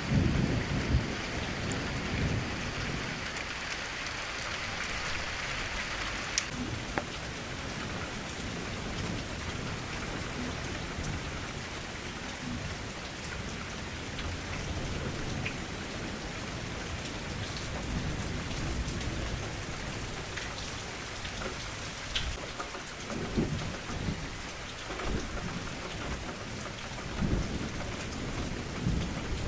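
Steady rain falling, with low rumbles of thunder near the start and again several times in the second half.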